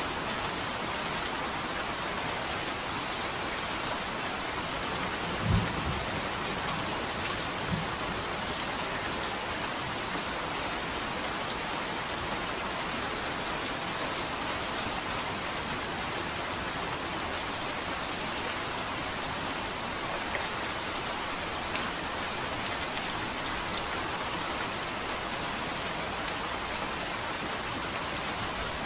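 Steady heavy rain, with a short low rumble of thunder about five seconds in and a fainter one about two seconds later.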